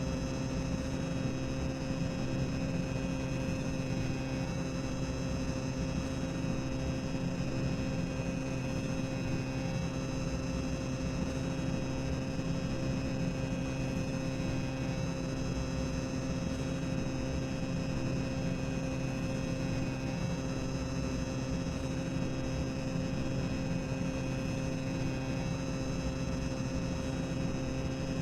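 Boiler-room ambience sound effect: a steady low machinery rumble with a constant hum and a thin hiss over it.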